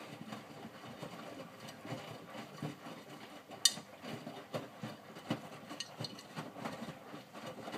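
Miele W562 front-loading washing machine in the main wash of its minimum iron cycle, the drum turning the wet load with a steady hum and irregular soft knocks, and one sharper click about three and a half seconds in.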